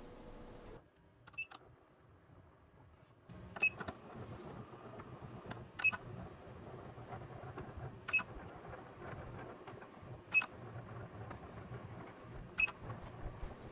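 Incubator's automatic egg turner running: a sharp click with a brief ringing tone about every two seconds, over a low steady hum that comes in about three seconds in.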